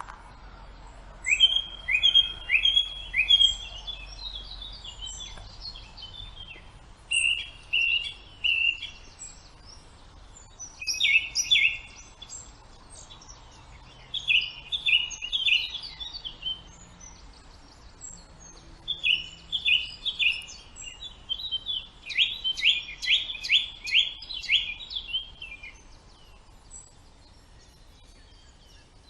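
Songbirds singing in a forest: short phrases of quick repeated chirping notes, a new phrase every few seconds, over a faint steady background hum.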